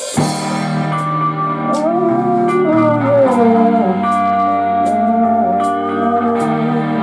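A live rock band plays the slow opening of a song: held electric guitar chords under a lead guitar line that slides and bends between notes. Light, even high ticks keep time about every 0.7 seconds, after a crash at the very start.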